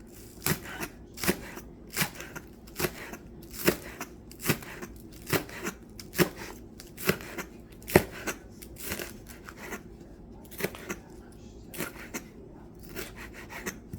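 Spring onions being cut into pieces, one crisp cut about every second in a steady rhythm.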